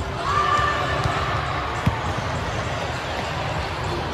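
Indoor volleyball play in a gym hall: a steady rumble of court noise, a short high squeal near the start, and one sharp smack of a ball being hit about two seconds in.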